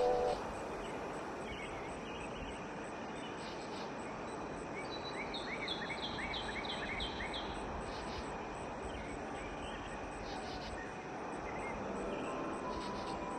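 Outdoor nature ambience with a steady airy hiss. About five seconds in, a bird gives a quick run of about eight chirps, roughly three a second. Soft musical tones come back in near the end.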